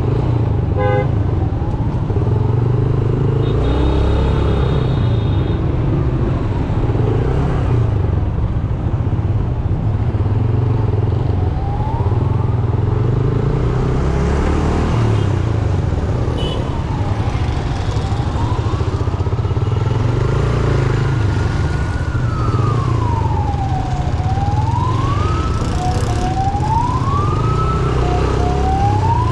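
Yamaha YBR 125G single-cylinder motorcycle engine running steadily under traffic noise. Partway through, a siren starts wailing slowly up and down, then cycles faster near the end.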